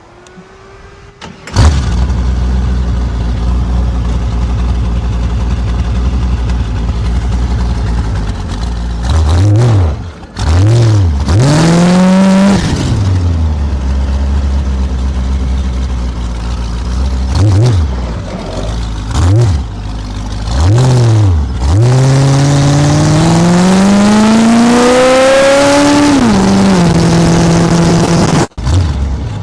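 Small-block Chevy V8 (a 383) on a Cheetah chopper trike fires up about a second and a half in and idles with a steady, lumpy beat. The throttle is blipped in short revs several times, and near the end the revs climb steadily for about four seconds, hold, then drop back.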